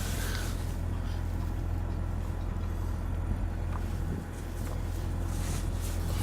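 Sailboat's inboard engine running steadily with an even low rumble, with brief gusts of wind on the microphone.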